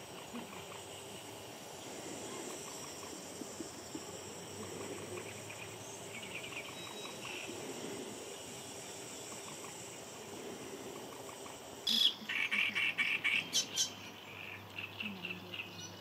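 Waterside ambience with a steady high-pitched insect buzz and faint scattered bird chirps. About twelve seconds in, a bird sings a loud run of quickly repeated notes lasting about two seconds, followed by softer repeats.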